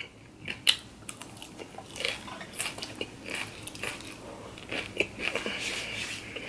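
A person chewing a mouthful of raw shredded salad (cabbage, lettuce and greens), close to the microphone: irregular crunches and mouth clicks, one sharper click near the start.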